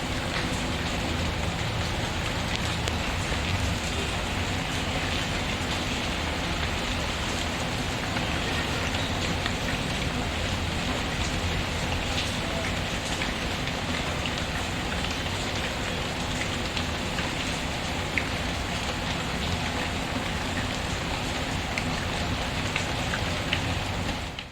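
Steady rain patter mixed with a fireplace, with scattered faint sharp crackles over the rain. The sound cuts off abruptly at the very end.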